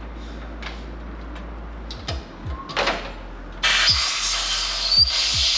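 Compressed-air blow gun hissing in a loud, steady blast of about two seconds, starting a little past halfway, blowing drill swarf out of drilled-out coil-pack bolt holes. Before it come a few short knocks and clatters.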